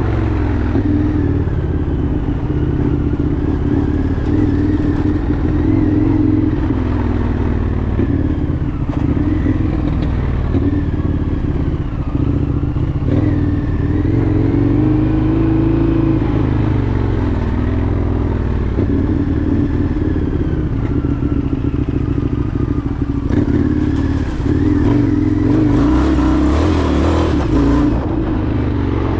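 Indian FTR 1200's V-twin engine running as the motorcycle is ridden, its pitch rising and falling gently with the throttle. Near the end a louder rushing noise joins it for several seconds.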